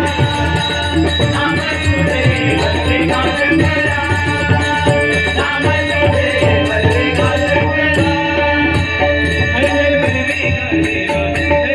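Konkan bhajan music: a bua's devotional singing over drum accompaniment, with a steady, busy rhythm.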